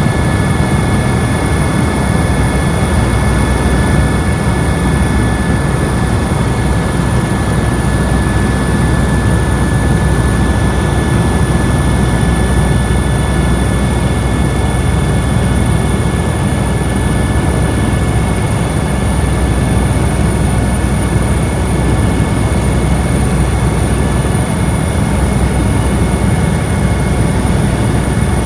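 Helicopter in steady flight: continuous loud engine and rotor noise, heavy in the low end, with steady high-pitched whining tones over it.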